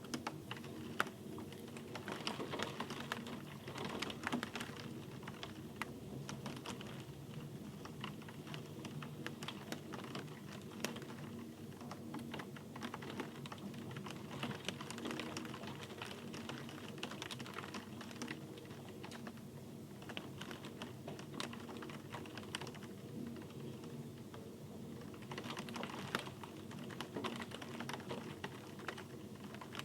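Steady rain, with many separate drops clicking and ticking irregularly close by over a constant soft patter.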